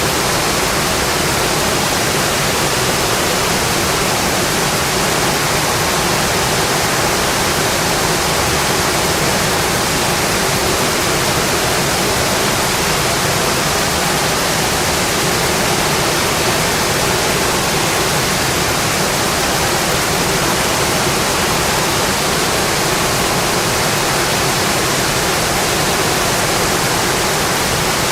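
Steady heavy rain drumming on a metal roof, an even unbroken hiss with no change in strength.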